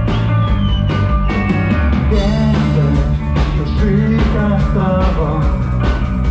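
Rock band playing live, an instrumental passage with drum kit strikes and bass under a wavering, bending melodic line that enters about two and a half seconds in.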